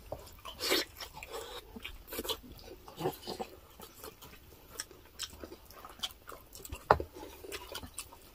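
Close-miked eating sounds: chewing and biting with irregular wet smacks and mouth clicks as pork dinuguan and rice are eaten by hand, with one sharper click just before seven seconds in.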